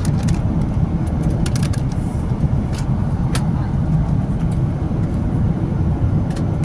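Steady low rumble of a Boeing 777-300ER cabin in cruise, the engine and airflow noise heard from inside the cabin. A few light clicks sound over it.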